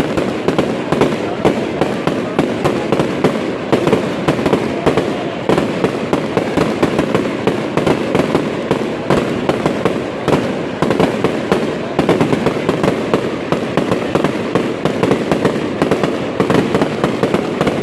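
Fireworks display: a dense, unbroken stream of crackling and small bangs, many overlapping explosions with no pause between them.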